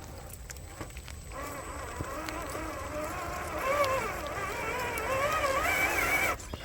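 Electric drive motor and gears of an RC scale crawler truck whining, the pitch rising and falling with the throttle as it crawls, then cutting off abruptly near the end. Steady patter of rain underneath.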